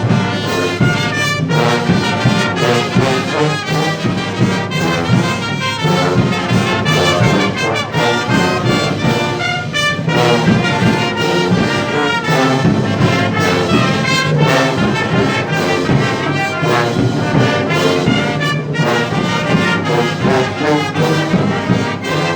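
Brass band with trumpets and trombones playing a slow processional march, the band that accompanies the image in a Guatemalan procession.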